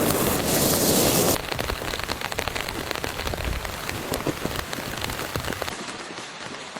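Rain falling onto a surface, a dense hiss full of many separate drop hits; heavier and hissier for about the first second and a half, then steadier.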